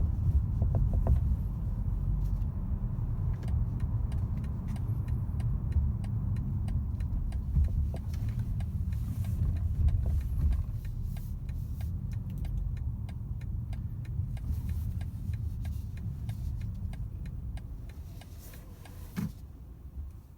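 Low, steady rumble of a 2022 BMW 330i xDrive on the move, heard from inside the cabin, with faint irregular ticks over it. It dies away near the end, with a single knock just before.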